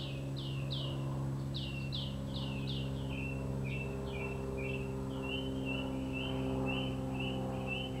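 A songbird singing a run of quick notes that each fall in pitch, about three a second, switching about three seconds in to shorter, flatter notes, over a steady low hum.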